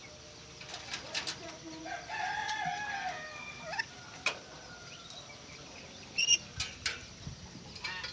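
A rooster crowing once, a drawn-out wavering call about two seconds in, amid several short, sharp bird squawks and clicks.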